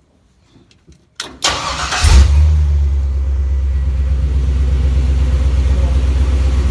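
LS V8 engine swap cranked by the starter about a second in, catching with a brief flare and settling into a steady idle on all eight cylinders, its cylinder-one misfire cured.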